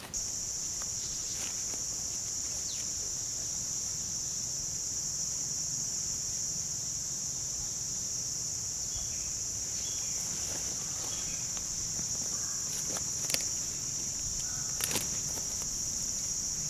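Insects chirping in a steady, high-pitched chorus, with a few faint clicks near the end. The sound starts and stops abruptly.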